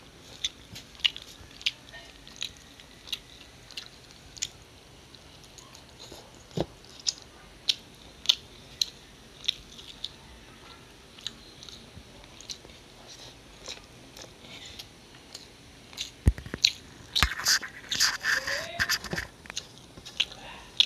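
A person chewing rice and chicken curry close to the microphone, with sharp mouth clicks about one or two a second. Near the end come two low thumps and a dense run of louder chewing noises.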